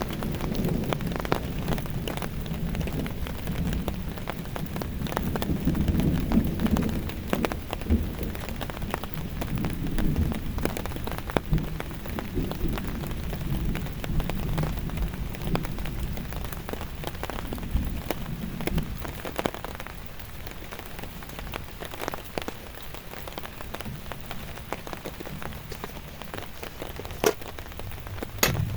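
Heavy rain with dense drops pattering on a surface close by. A low rumble under it through the first two-thirds then eases, and there are a couple of sharper knocks near the end.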